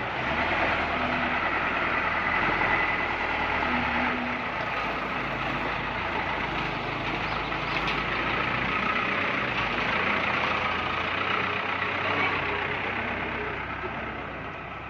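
Mitsubishi dump truck's diesel engine running steadily, with a dense rumbling noise over it that eases off near the end.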